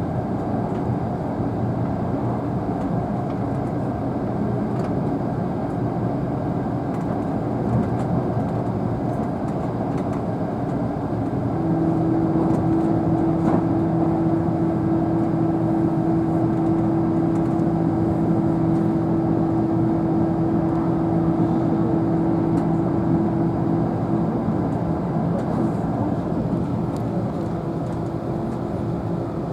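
Running noise inside the cabin of a Tobu N100 series Spacia X electric limited express train: a steady rumble, joined about a third of the way through by a steady hum that holds almost to the end.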